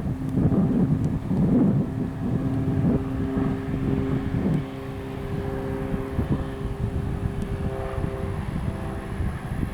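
Cessna 182R Skylane's piston engine and propeller droning steadily, heard as a few held tones over gusty wind noise on the microphone.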